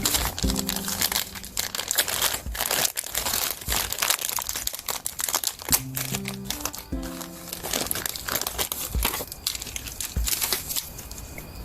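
Packaging being handled and unwrapped, with dense, irregular crinkling throughout, over background music.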